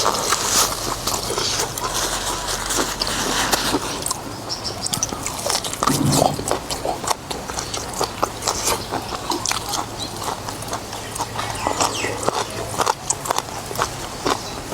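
A person eating noodles with beef soup close to the microphone: wet chewing with many short smacks and clicks.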